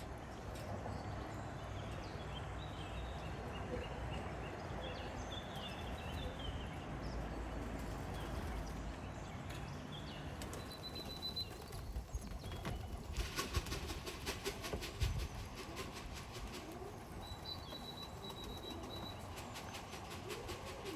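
Racing pigeons at the loft: a quick flurry of wing flapping about two-thirds of the way through, with small birds chirping and a couple of short high whistles over a steady low rumble.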